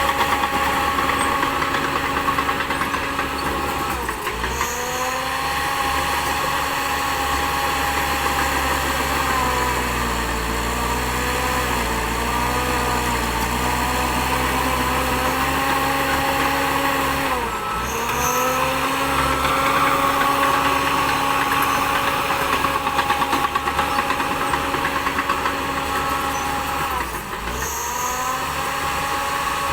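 Diesel engine of a Shantui DH10B2 crawler bulldozer running steadily. Its pitch sags and recovers three times, about four seconds in, around the middle and near the end, as the engine is loaded, and it wavers for a few seconds between the first two dips.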